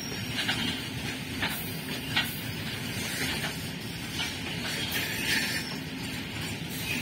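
Loaded BOXN HL open freight wagons rolling past on the rails, their wheels giving a steady rumbling run with a few short clacks scattered through.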